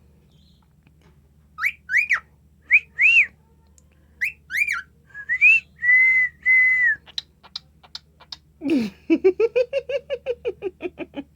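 Cockatiel whistling its song: a run of short whistled notes that each rise and fall, then two longer level notes. Near the end it breaks into a lower, buzzy chattering phrase.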